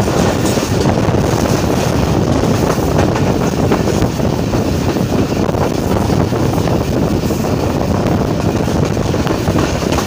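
Moving train's running noise: a steady rumble of wheels on the rails with faint scattered clicks.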